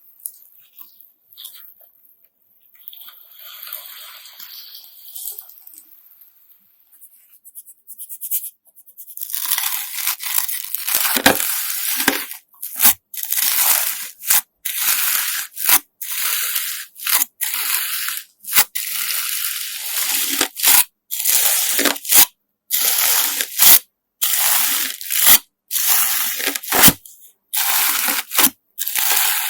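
A slime mixed with coloured sand being pressed and squeezed by hand, giving gritty, crunchy squishing sounds. After a quieter opening stretch, a run of repeated presses begins about nine seconds in, each lasting about a second with brief pauses between.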